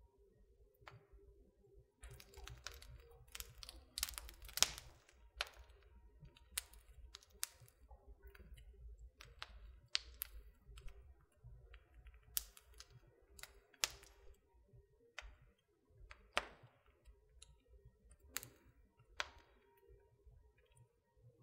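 Wood fire crackling in a fireplace: irregular sharp pops and snaps, the loudest a few seconds in, over a low rumble.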